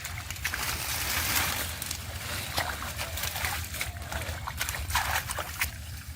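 Shallow muddy river water sloshing and splashing irregularly, with many small wet splashes and clicks, over a steady low hum.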